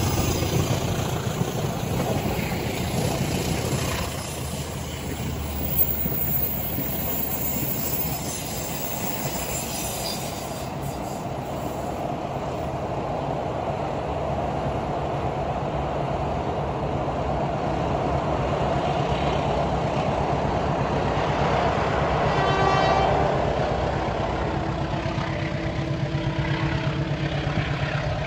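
Passenger coaches of a diesel-hauled train running past on the rails, a steady rumble and clatter of wheels on track. About three-quarters of the way through, the diesel locomotive sounds a short horn blast.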